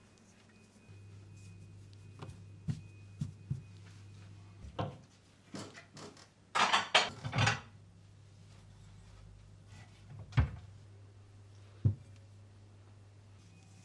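Household handling sounds: scattered light knocks and clicks, then a loud cluster of clattering knocks about seven seconds in, followed by two single sharp knocks, over a low steady hum.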